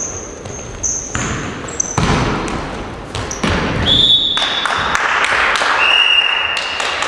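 Several basketballs bouncing on a gym floor in a large, echoing hall, many overlapping knocks, with a few held high squeaks of about a second each in the second half.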